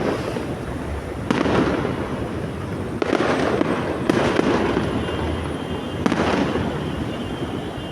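Aerial fireworks going off in quick succession: a new burst about every second or so, each followed by crackling and a rumbling echo.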